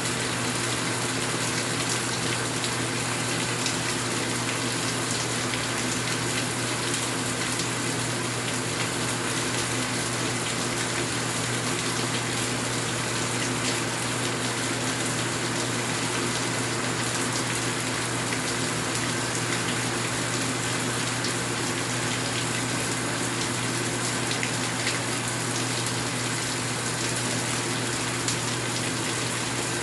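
Steady rain falling, an even rushing hiss of water.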